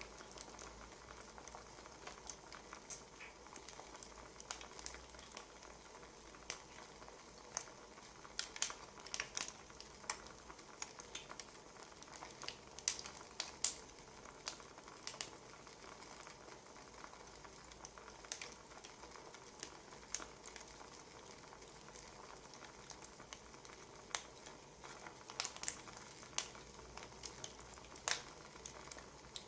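Wood fire crackling, with irregular sharp pops and snaps over a faint hiss. The pops come in small clusters, thickest around the middle and again near the end.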